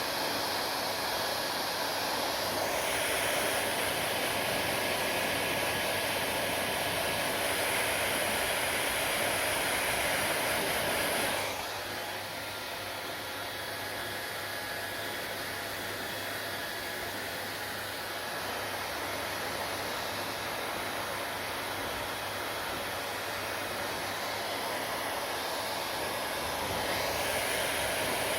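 Hair dryer blowing steadily, a continuous rush of air over a low motor hum. A little less than halfway through it turns quieter and duller, then grows louder again near the end.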